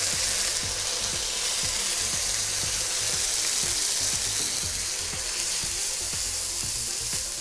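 Ginger-garlic paste frying in hot coconut oil in a steel kadai: a steady sizzle.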